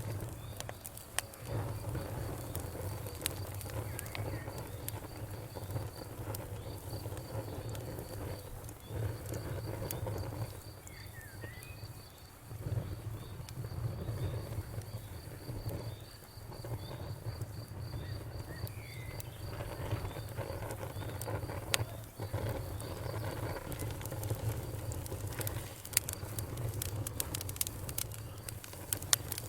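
Wood fire crackling, with scattered sharp pops over a low steady rumble. An insect chirps in a fast, even, high-pitched pulse through most of it and stops about two-thirds of the way in, and a faint bird chirp comes twice.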